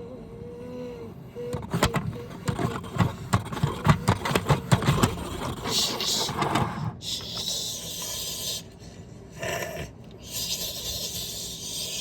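Washing machine with an unbalanced load, its drum knocking and thumping in a rapid irregular run while it shakes; the load of socks has bunched to one side. From about six seconds in, a hissing rush follows in two long spells.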